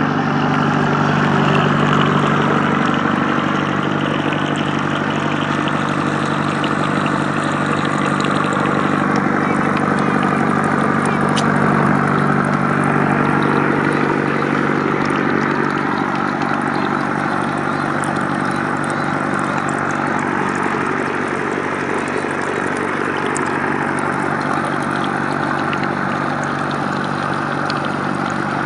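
A small motor running steadily with a constant hum, the kind that drives the mini water pump.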